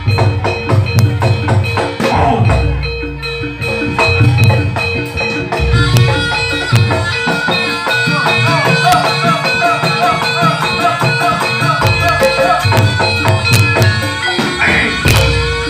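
Javanese gamelan-style music accompanying a barongan dance: drums keeping a steady beat under struck pitched metal or wooden percussion, with a held reed-like tone.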